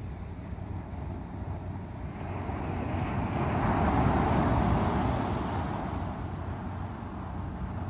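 Ocean surf: a wave builds and breaks loudly about four seconds in, then washes back, over a steady low rumble of waves.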